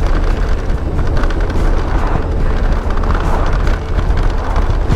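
Loud wind buffeting on the microphone of a Harley-Davidson motorcycle moving at road speed, with the bike's engine and road noise running underneath.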